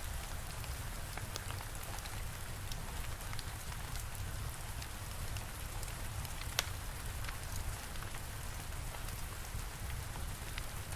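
Steady rain with a low rumble underneath, with scattered sharp crackles of a wood fire, one louder pop about six and a half seconds in.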